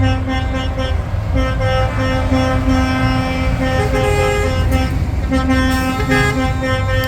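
Parading trucks sounding their air horns in repeated long blasts, the horn notes breaking off and starting again, over the rumble of diesel engines.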